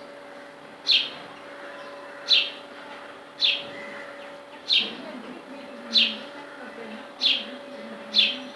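A bird giving one short, sharp call again and again, about once every 1.2 seconds, each call falling quickly in pitch. A steady hum runs underneath.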